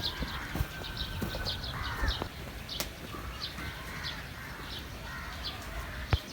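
Birds chirping: many short, high chirps repeating every half second or so, with a few low knocks and one sharp click near the end.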